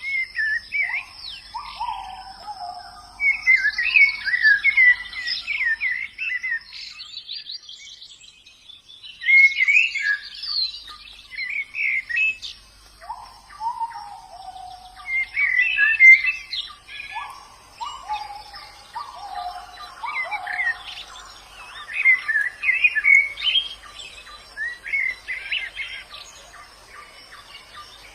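White-eyes (pleci) singing in the wild: bursts of fast, high twittering chirps mixed with lower falling whistled notes, with a brief lull about a third of the way through. A faint steady high-pitched tone runs underneath.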